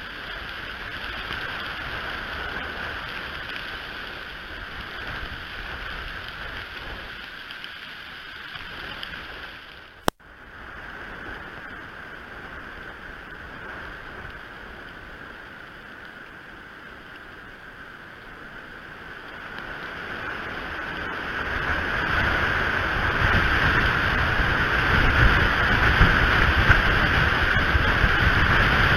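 Wind blowing on an outdoor nest-camera microphone, a steady rushing that swells and grows louder about two-thirds of the way through. A single sharp click about a third of the way in.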